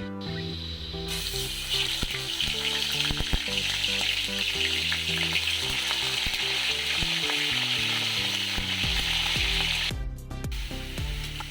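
Chicken frying in hot oil in a pan, a dense sizzle that starts about a second in and drops away sharply near the end.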